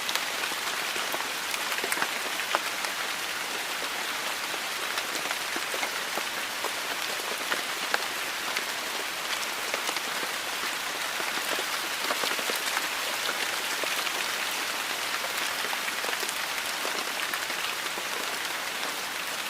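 Heavy rain falling steadily, a continuous hiss dotted with the sharp ticks of individual drops striking close by.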